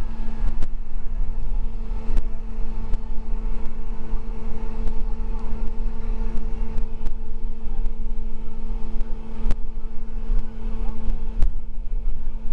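School bus running along the road, heard from inside the cabin: a steady low rumble and engine drone with a constant hum, and scattered sharp clicks and rattles.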